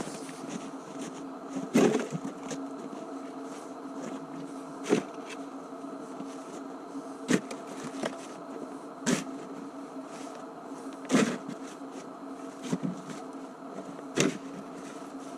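A small engine running with a steady buzzing hum, with a short sharp scrape or knock about every two to three seconds.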